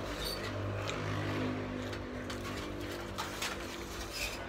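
A mouthful of burger being chewed, with small wet mouth clicks, over the steady low hum of an engine running.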